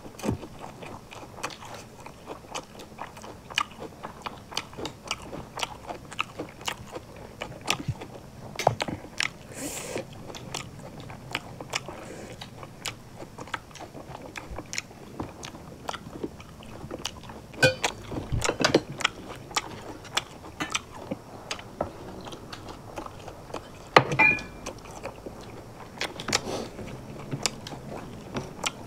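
Close-up chewing and crunching of Manipuri singju salad and rice eaten by hand, with many small clicks and crackles. A few louder clusters come about two-thirds of the way through.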